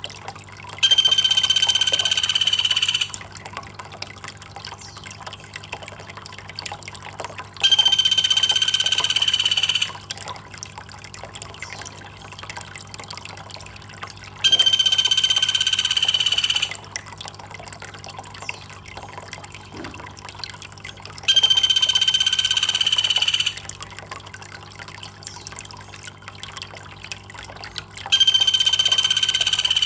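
Water trickling and dripping steadily, with a loud, steady, high-pitched buzzing call over it. The call lasts about two seconds and comes five times at even intervals of about seven seconds.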